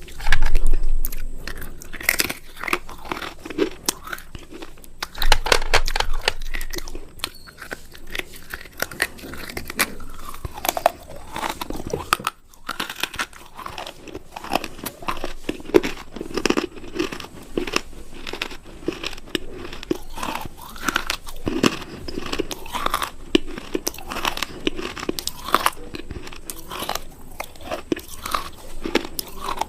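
A person biting and chewing crunchy food close to the microphone: irregular, rapid crunches throughout, with two louder bites just after the start and about five seconds in.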